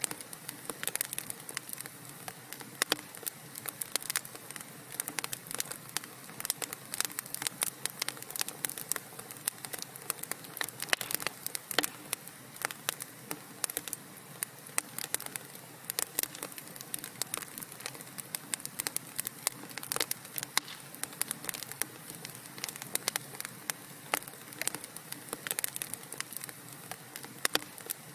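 Wood fire burning in a fireplace, crackling with a steady soft hiss and frequent irregular sharp pops and snaps.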